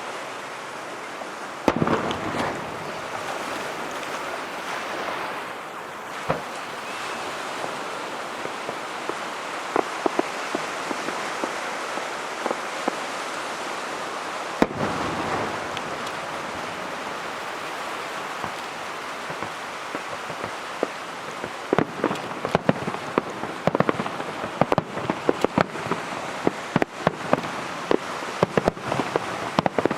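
Aerial fireworks display: shells bursting with a sharp bang about two seconds in and another around fifteen seconds, over a steady hiss of crackling stars. From about twenty-two seconds on, the crackling turns into dense, rapid pops.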